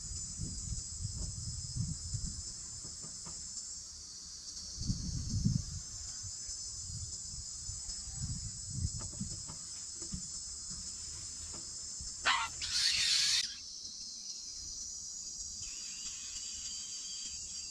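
Steady high-pitched insect chorus, cricket-like, running throughout, with a few low muffled rumbles. A short loud hissy, rasping burst about two-thirds of the way in.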